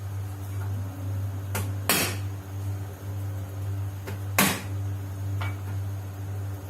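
A few sharp knocks and clacks from kitchen work, the loudest about two seconds and four and a half seconds in, over a steady low hum.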